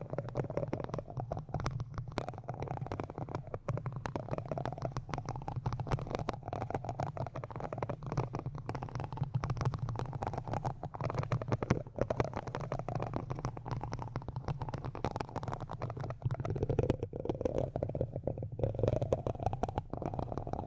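Close-miked ASMR microphone rubbing and scratching: a dense, muffled crackle of many small clicks with a low rumble, swelling in slow waves, louder in the last few seconds.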